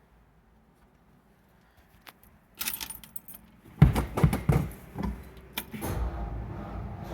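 Keys jingling a little past halfway, then the 1951 Ford Custom's engine being cranked on a cold start, with loud uneven strokes, catching and starting to run near the end.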